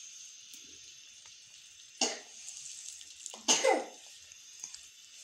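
Paratha frying in ghee on a hot tawa, a steady sizzling hiss, broken by two loud coughs, a short one about two seconds in and a longer one about three and a half seconds in.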